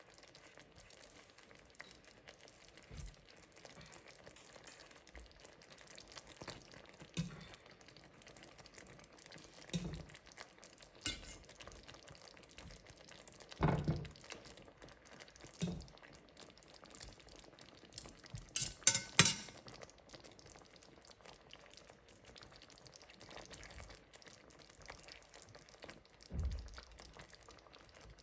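Cooking at a pan: a utensil stirring food and knocking against the pan now and then, over a faint frying sizzle. A little past halfway comes a quick run of sharp metal clinks, the loudest sounds here.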